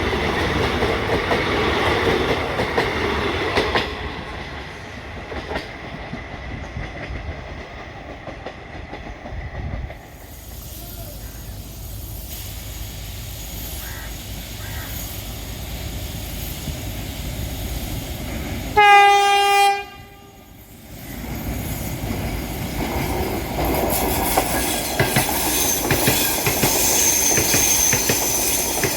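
Train running over the track with wheel clatter, loud at first and then fading. About two-thirds of the way through, a locomotive horn gives one loud blast of about a second, and then the train noise builds again.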